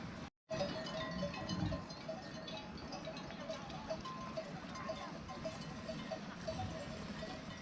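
Livestock bells on a flock of sheep clinking continually and irregularly, cutting out for a moment just after the start.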